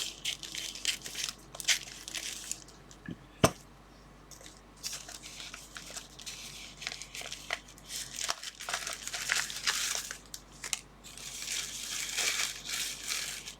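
Small parcel's packaging being handled and rustled in irregular bursts, with one sharp click about three and a half seconds in.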